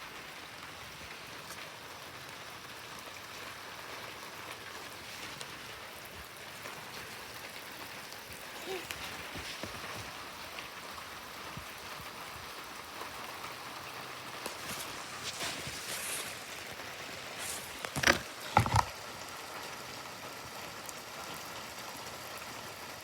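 Heavy rain falling, a steady hiss of drops. Two sharp knocks stand out about eighteen seconds in.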